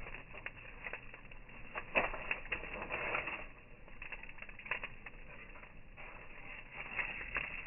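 Campfire crackling, with irregular snaps and pops, a busier run of them about two seconds in.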